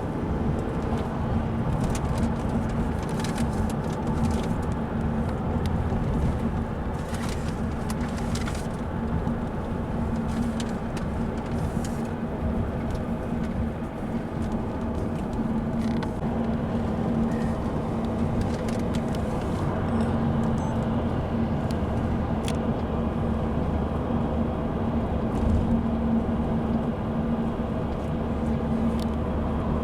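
Car interior noise while driving: a steady engine hum and road rumble, with a few faint clicks.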